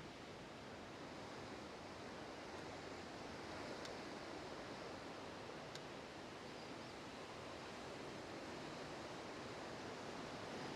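Faint, steady background hiss with no distinct source, broken only by two faint clicks.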